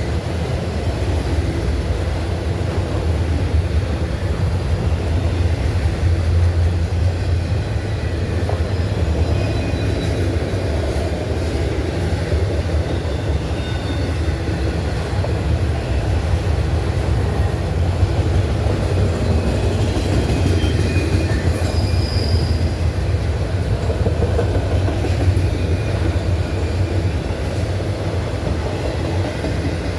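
Norfolk Southern freight train rolling past: a steady, loud rumble of cars on the rails, with brief high wheel squeals now and then.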